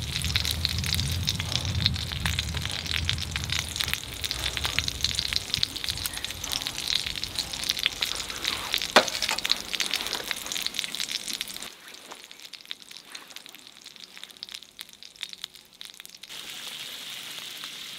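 Pork belly frying in its own fat, with a dense crackling sizzle and one sharp pop about nine seconds in. The sizzle drops to a quieter hiss about twelve seconds in.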